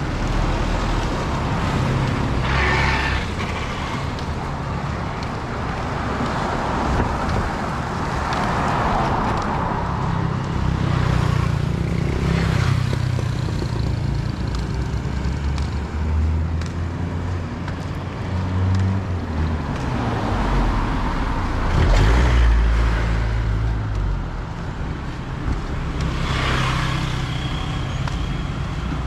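Street traffic: motor vehicle engines running steadily, with vehicles passing several times.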